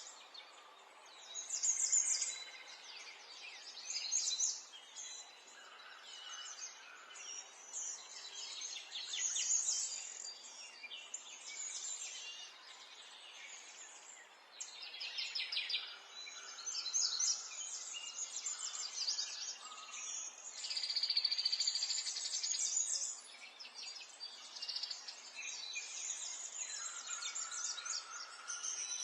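Several small songbirds chirping and twittering at once, fast trills and short calls overlapping throughout, with a few lower whistled notes, over a faint steady background hiss.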